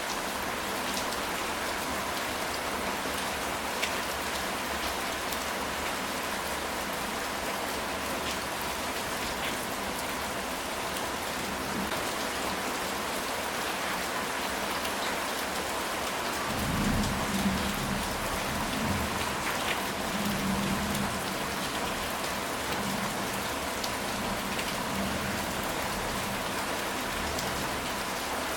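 Steady rain falling on a ceramic tile roof, with individual drops ticking now and then. A low rumble of thunder swells and fades about two-thirds of the way through.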